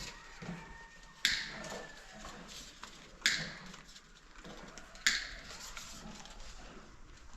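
Three sharp knocks or clicks, about two seconds apart, each with a brief ringing tail.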